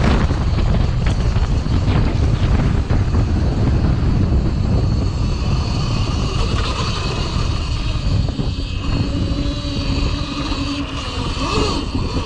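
Cake Kalk OR electric dirt bike being ridden: the electric motor's steady whine over heavy wind rumble on the microphone, with a lower hum joining after about eight seconds.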